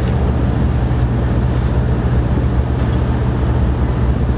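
A steady, loud, low machine hum runs without change, with a few faint clicks over it.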